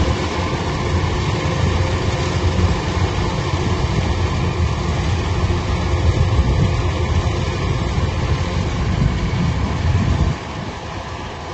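Heavy machine's engine running steadily under load, low and loud; the sound drops abruptly to a lower level about ten seconds in.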